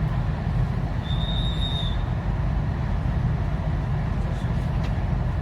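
Steady low rumble of an ETS electric train running on the rails, with a brief high-pitched tone about a second in.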